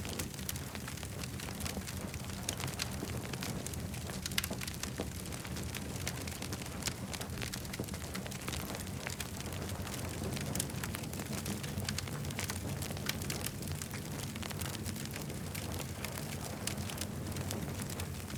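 Campfire burning: wood crackling with many quick, irregular pops and snaps over a steady low rumble of the flames.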